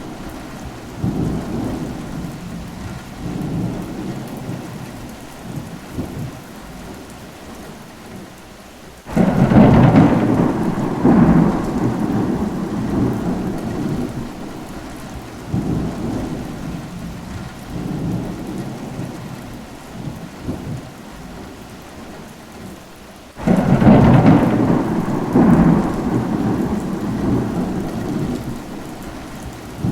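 Steady rain with rolling thunder: two sudden loud claps, about nine seconds in and again about twenty-three seconds in, each rumbling away over several seconds.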